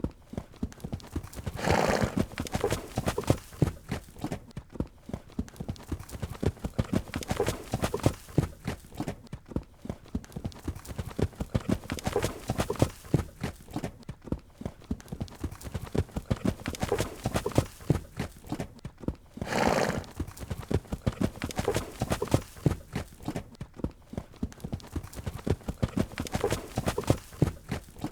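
Horse hoofbeats in a quick, steady rhythm of many clip-clops a second, with a horse neighing twice: once about two seconds in and again about two-thirds of the way through.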